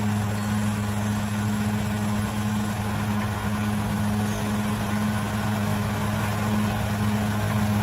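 Bulldozer's diesel engine running at a steady, unchanging pitch.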